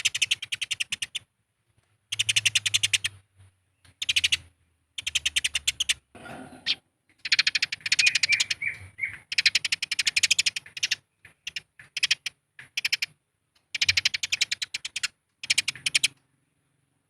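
Eurasian tree sparrows squabbling: rapid trains of sharp chirps in bursts of about a second, separated by short pauses, with a few drawn-out notes near the middle.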